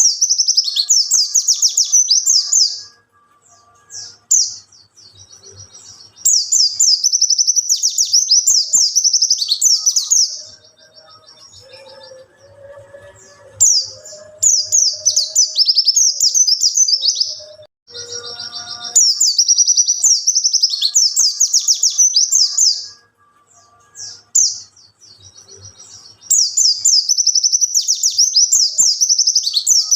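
Wild white-eye (pleci) singing: bouts of rapid, high twittering warble, each about four seconds long, repeating every six seconds or so with short pauses between.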